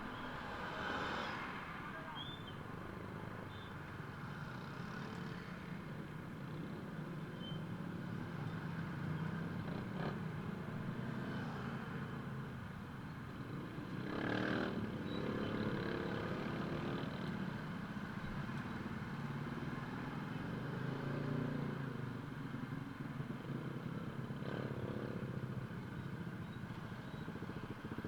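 A vehicle engine runs steadily under a constant hiss, with a couple of brief knocks.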